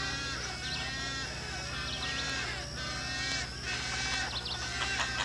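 A chorus of wading birds calling: many overlapping nasal, bleating calls, some gliding in pitch, over a steady low hum. Near the end a rapid run of clicks sets in.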